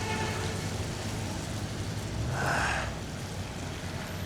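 Steady street noise with a low rumble on a slushy city street, and a brief hiss about two and a half seconds in.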